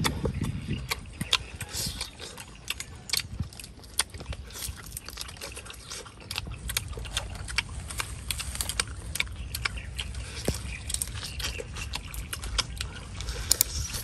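People eating roast duck with their hands: close-up chewing, with many short wet smacking clicks as meat is bitten and pulled off the bone.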